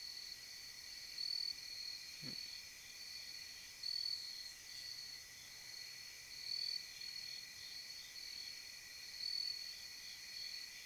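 Crickets chirping in a steady, high, pulsing chorus. A short faint falling sound comes about two seconds in.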